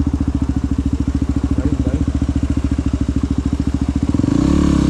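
Motorcycle engine running at low revs with a steady, even pulsing beat, revving up and getting louder near the end.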